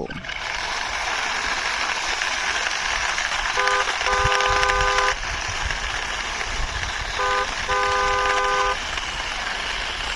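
Car horn honking in a short-then-long pattern, twice, about three and a half seconds apart, over a steady rushing noise.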